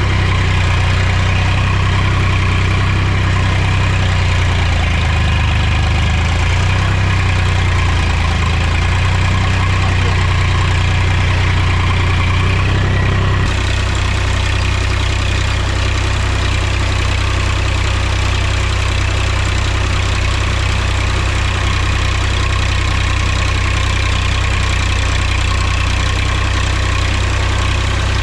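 Mahindra tractor's diesel engine running with a steady low drone; its tone shifts slightly about halfway through.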